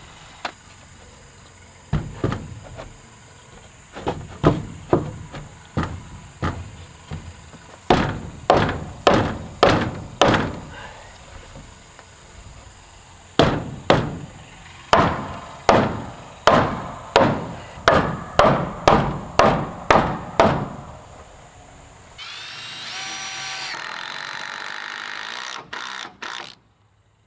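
Repeated hammer blows on wood, about two a second in runs, as a 4x4 timber is driven into a tight gap in a wooden frame. Near the end a steady whine runs for about four seconds.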